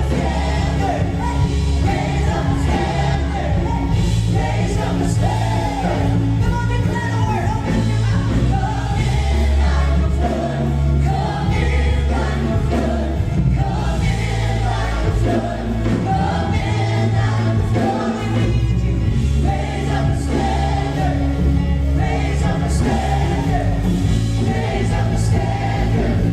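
Gospel worship music: a choir and singers over a steady bass and band accompaniment.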